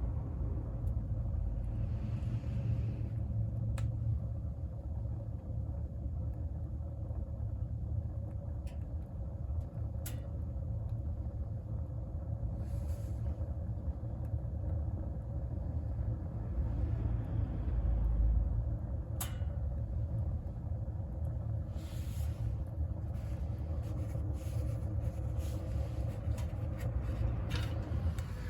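Wood fire burning in a wood stove: a steady low rumble with scattered sharp crackles and pops from the burning wood, which come more often near the end.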